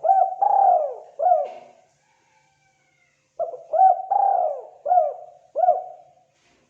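Spotted dove calling: two phrases of low, mellow coos a second and a half apart, each phrase of about four notes, the later notes longer and falling in pitch.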